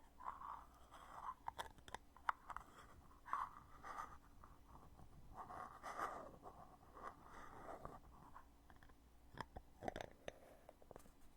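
Faint scraping and rubbing of a foundation container's heavy lid being handled, opened and closed, broken by several sharp clicks.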